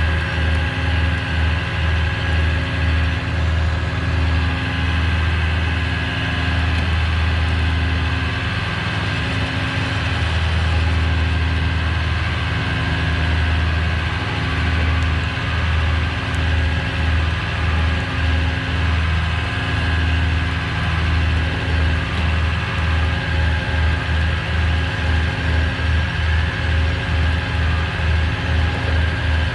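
Tow truck engine idling steadily, its low hum pulsing at an even rate.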